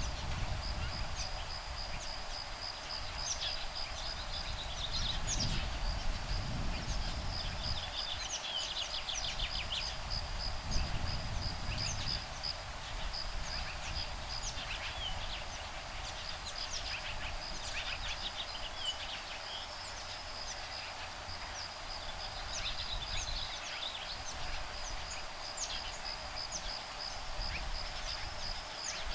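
Woodpeckers, nestlings and adults, calling back and forth in many short high calls over a steady high insect trill. Gusts of breeze add a low rumble that comes and goes.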